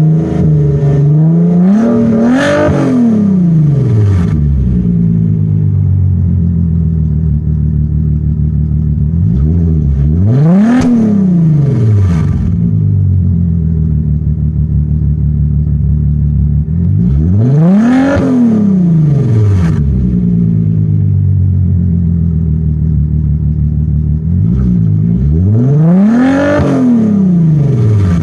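2007 Volkswagen Passat's 3.6-litre VR6 engine, running with its mufflers and centre resonator removed, idling and revved four times. Each rev climbs quickly and drops straight back to idle. The exhaust pipes are not yet on hangers and rattle slightly as the revs fall.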